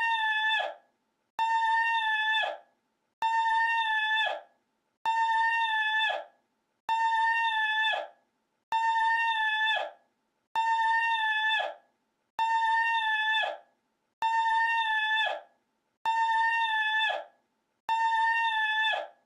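The same short sound clip looped over and over: one steady high-pitched note of about a second that drops away at its end, repeated identically about every two seconds, eleven times over.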